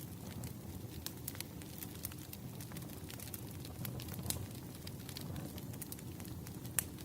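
Wood fire crackling: scattered sharp pops and snaps over a low steady rumble of burning logs, with louder pops about four seconds in and near the end.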